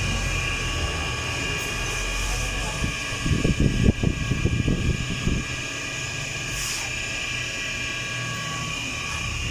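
Steady mechanical hum of workshop machinery, broken by a rapid, irregular metallic rattling for about two seconds near the middle.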